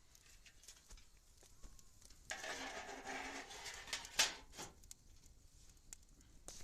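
Wood fire crackling with scattered small pops. A rushing burst starts about two seconds in and lasts over a second, and a sharp crack just after it is the loudest sound.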